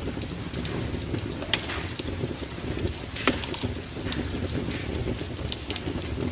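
Wood fire in a fireplace crackling, with scattered sharp pops over a low steady rumble of the flames; two pops stand out, about a second and a half in and just after three seconds.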